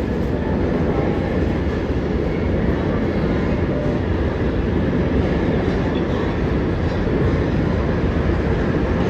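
New York City subway train running, a steady, loud rumble.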